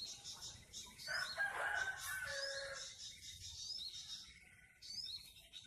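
An animal call lasting about two seconds, starting a little after a second in and ending on a held tone, over repeated short high rising chirps.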